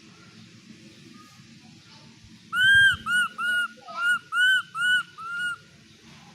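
Baby monkey giving a run of about eight short, high-pitched calls, each rising then falling in pitch, over about three seconds starting a couple of seconds in: an infant's calls for comfort from its parent.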